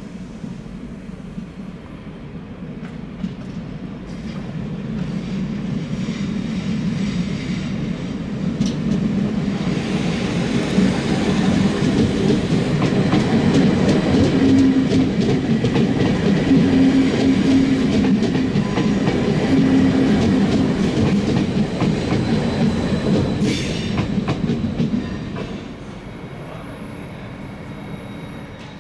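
SBB RABe 511 Stadler KISS double-deck electric multiple unit passing close, with a dense rumble of wheels on rails and clicking over rail joints. The sound builds over about ten seconds, stays loud for several seconds, then drops suddenly to a quieter steady background near the end.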